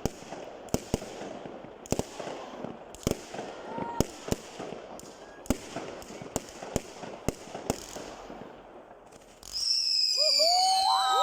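Fireworks going off: sharp, irregular bangs and cracks, at times several a second, over a low murmur of voices. About nine and a half seconds in, a much louder whistling with several tones, some falling in pitch, comes in.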